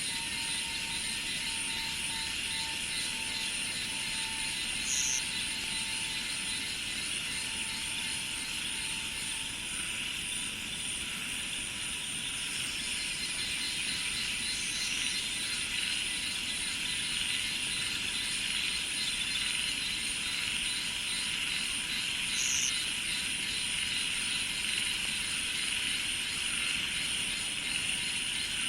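Steady, dense chorus of cicadas and other insects around the rice fields, with a faint intermittent tone in the first few seconds and three brief high chirps spread through it.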